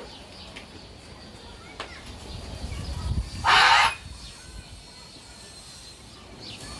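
A parrot gives one loud, harsh squawk lasting about half a second, about halfway through, with a low rumble just before it.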